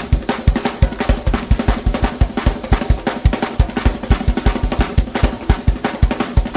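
Fast gospel praise-break music driven by a drum kit: a rapid, steady bass-drum pulse of about six or seven hits a second with snare, over sustained held chords.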